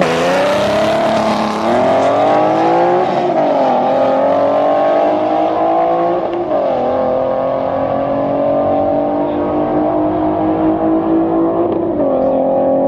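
Car engine accelerating hard through the gears: its pitch climbs steadily and drops sharply at each of about four upshifts, each gear lasting longer than the one before.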